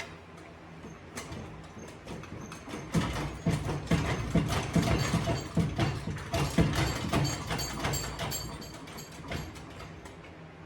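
Metal tools and transmission parts clanking and clicking in a quick, irregular run for several seconds, with a bright metallic ring.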